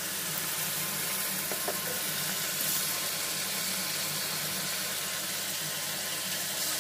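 Chicken pieces and liver sizzling steadily in hot oil in a steel kadai as they cook in their own juices.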